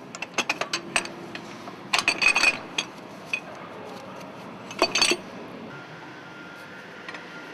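Metal hand tools and parts clinking and clattering as an exhaust-manifold bracket is unbolted from a diesel engine's cylinder head. The clinks come in three clusters, near the start, about two seconds in and about five seconds in.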